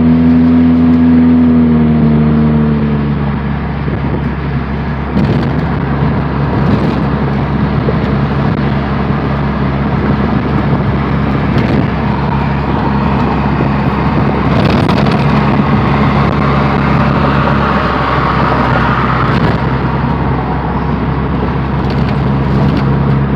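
Straight-piped GM 2.2L four-cylinder car engine running loud with no muffler while driving. Its note drops in the first few seconds, then holds at a steady drone.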